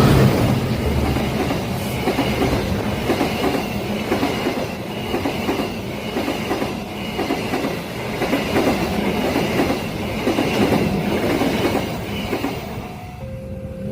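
A long train passing close by, its wheels clattering over the rail joints in a steady rhythm, with a faint high squeal from the wheels on a curved track. The sound fades away near the end.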